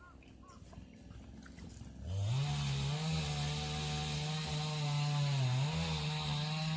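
A small engine revs up about two seconds in and holds at high, steady revs, dipping briefly and picking up again near the end.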